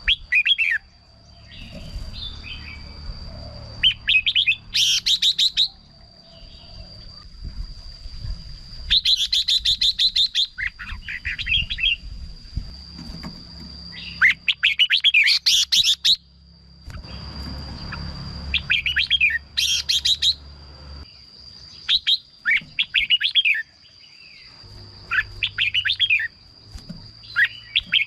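Red-whiskered bulbul singing: short bursts of quick, bright chirping phrases repeated every second or two, with a steady thin high tone underneath.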